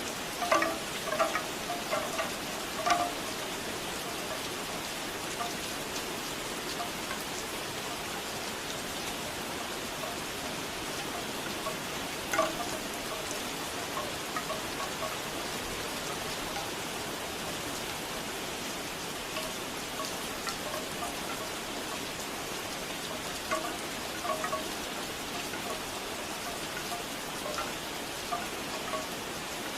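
Steady rain with bamboo wind chimes clacking now and then in short clusters of knocks, most near the start and again about twelve and twenty-four seconds in.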